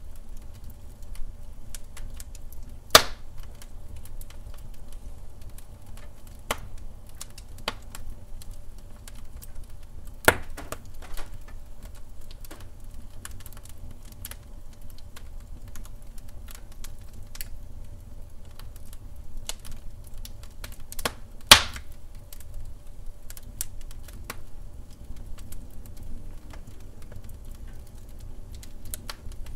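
Wood fire crackling in a fireplace: a steady low rumble of burning with frequent small irregular crackles and three louder, sharp pops.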